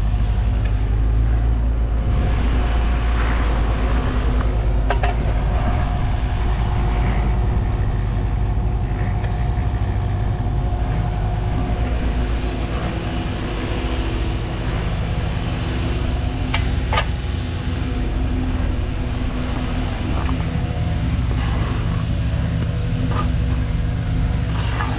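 A motor engine running steadily with a deep rumble, with a couple of sharp knocks about five seconds in and again after about seventeen seconds.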